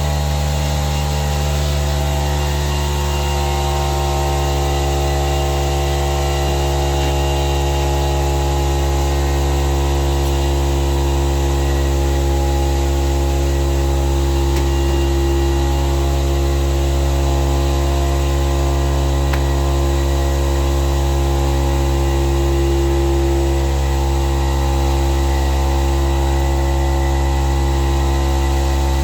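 Workshop air compressor running steadily with a loud, even motor hum, just after being switched on.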